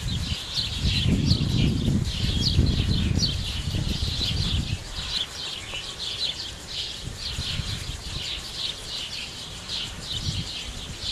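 Many small birds chirping rapidly and continuously in high, short notes. A low rumbling noise runs underneath in the first half and fades out about five seconds in.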